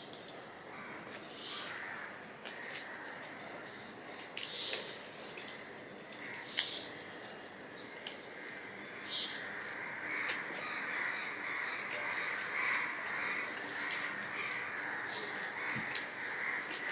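Close-up chewing and lip-smacking as rice and fried hilsa fish are eaten by hand, with scattered sharp mouth clicks. Behind it, crows cawing, growing louder about halfway through.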